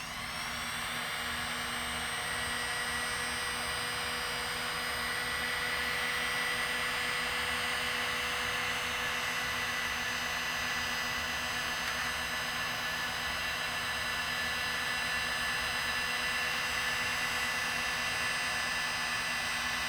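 Electric hot-air blower running steadily with a faint motor whine, shrinking heat-shrink tubing over a part.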